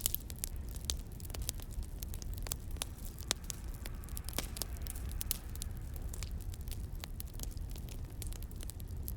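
Wood fire crackling: irregular snaps and pops of varying loudness over a steady low rumble.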